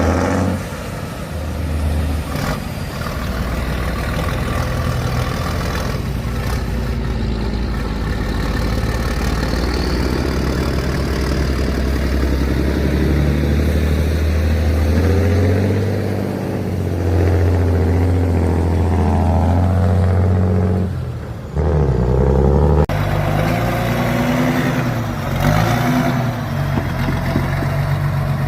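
Heavy 6×6 trial truck engine working under load, its revs rising and falling as it drives through an off-road section. The sound changes abruptly about three-quarters of the way in.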